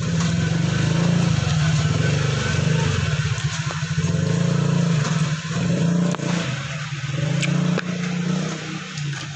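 A small engine running close by, with a low pulsing drone whose level dips and comes back several times before easing off near the end.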